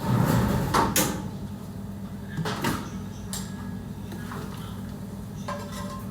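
A few sharp knocks, the loudest about a second in, over a steady low hum.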